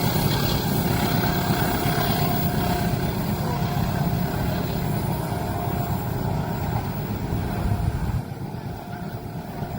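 Loud, steady rumble of a heavy vehicle passing close by, which falls away suddenly about eight seconds in.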